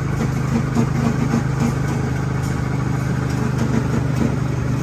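Go-kart's small engine running steadily with a low, even hum.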